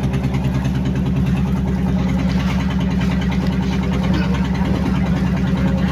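Large engine running steadily at idle, a deep even hum with a fast throb.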